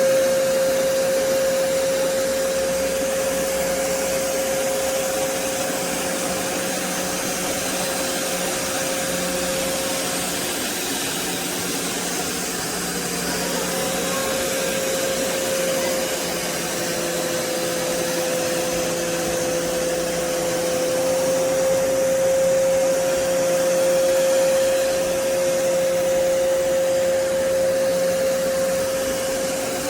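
BISSELL Revolution HydroSteam Pet carpet cleaner running: a steady high motor whine over the rush of suction air.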